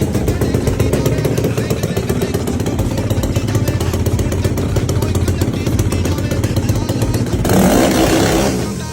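Motorcycle engine running steadily and loud, with a louder, rougher surge about seven and a half seconds in that lasts about a second before dropping away.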